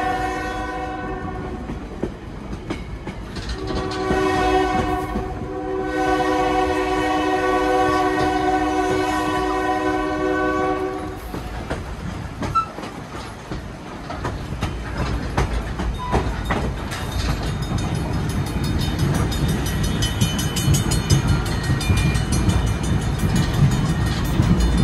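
Train horn sounding: a blast that ends about a second and a half in, then one long blast of about eight seconds. After it the train rolls on with a low rumble and clattering wheel clicks, growing louder near the end.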